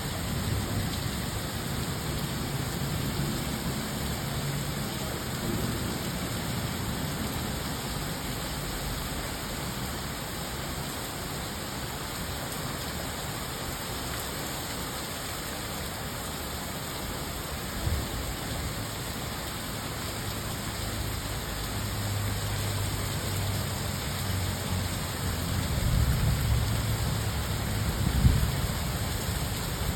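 Steady rain falling, a constant even hiss, with a single knock partway through and a low rumble building near the end.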